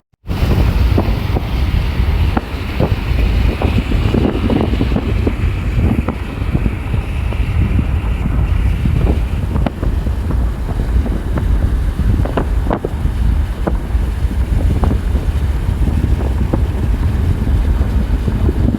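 Strong storm wind buffeting the microphone: a loud, steady low rumble, with scattered sharp ticks at irregular intervals.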